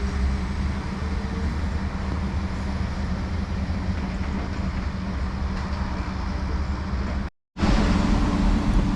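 Diesel train engine running with a steady low drone. It cuts out abruptly for a moment about seven seconds in, then comes back with a slightly different hum.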